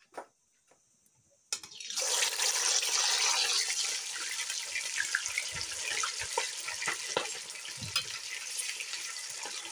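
Chicken pieces sizzling in hot oil in a kadai. The sizzle starts suddenly about a second and a half in as the first piece hits the oil and is loudest just after. It then settles to a steady sizzle with scattered crackles and pops as more pieces go in.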